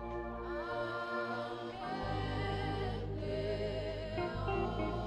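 Live gospel worship music: a saxophone melody over keyboard chords and a steady bass line, with sustained notes and a short bend in pitch about half a second in.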